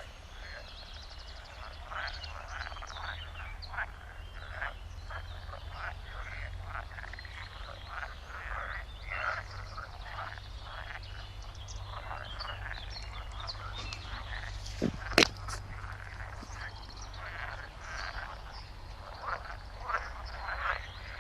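A chorus of frogs croaking, many short calls overlapping without pause. A single sharp click sounds about 15 seconds in.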